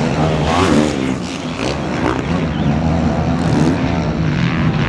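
An engine running steadily, its pitch wavering up and down slightly.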